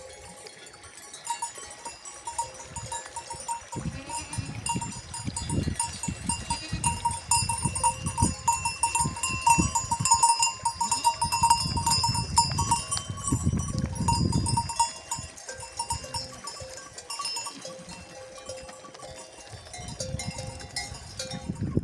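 Bells on a flock of sheep and goats jingling continually as the animals move. Irregular low scuffs and thuds come with the bells and are loudest through the middle.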